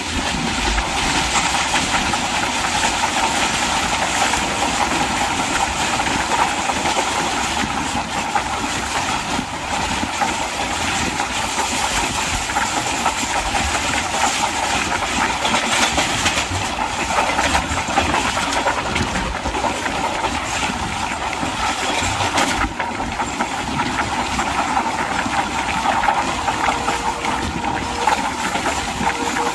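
Steady rushing noise of a moving train heard from on board: wind and wheel-on-rail running noise, with no clear rhythm of rail joints.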